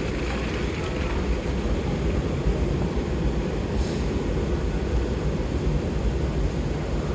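Long escalator running, a steady low rumble with no break.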